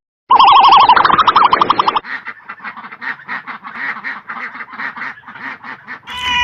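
A loud warbling, siren-like call in the first two seconds, then a quieter rapid run of short quacks, about five or six a second, typical of a duck. A cat's meow begins right at the end.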